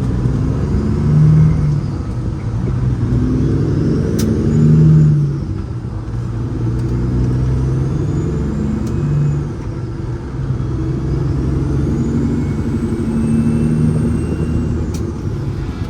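Truck's diesel engine pulling away and accelerating on the highway, its note swelling and easing off several times, with a faint high whistle that rises and falls with it.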